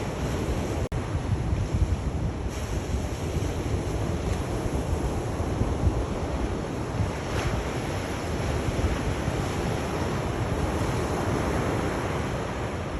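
Sea waves washing onto the shore in a steady surf that swells and eases, with wind rumbling on the microphone. The sound cuts out for an instant about a second in.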